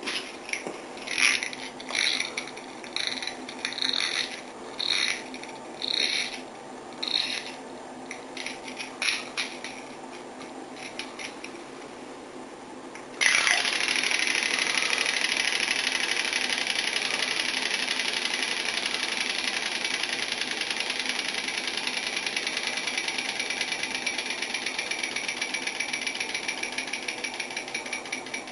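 Short rattling noises about once a second, then about halfway through a sudden steady rushing hiss of water, like a shower head spraying, which fades a little toward the end.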